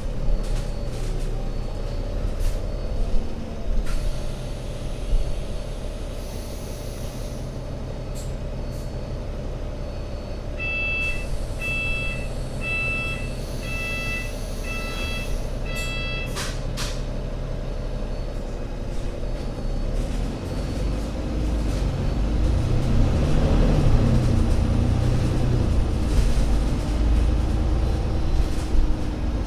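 Alexander Dennis Enviro500 MMC double-decker bus's diesel engine running steadily. About midway there is a run of six short electronic warning beeps, then a sharp hiss of released air. Near the end the engine revs up and settles as the bus pulls away.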